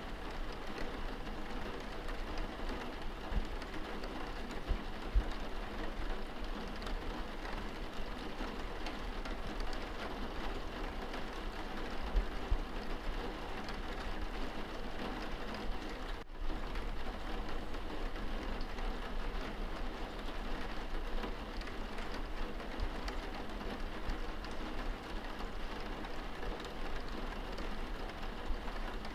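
Rain falling on window glass, heard from indoors: a steady hiss of many small drop ticks with a low rumble underneath. The sound cuts out for an instant about sixteen seconds in.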